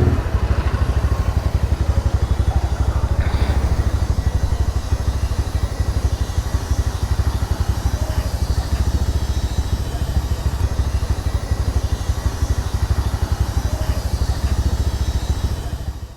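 Taro GP1 V3 motorcycle engine running steadily, its exhaust beating in fast, even pulses.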